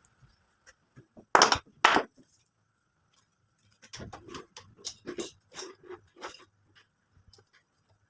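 Two loud sharp knocks about half a second apart, then, after a short pause, a couple of seconds of lighter irregular taps and scrapes, like wood and tools being handled during repair work.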